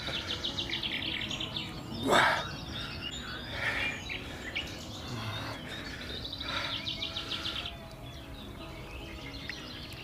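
Birds singing outdoors, including a fast, high, ticking trill heard twice, each about two seconds long, among scattered chirps. A short, louder rush of noise comes about two seconds in.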